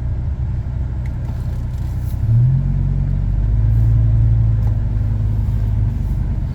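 Dodge Ram SRT10's 8.3-litre Viper V10 running as the truck drives, a steady low engine note. About two seconds in it briefly rises in pitch and gets louder, then holds steady as the truck pulls along.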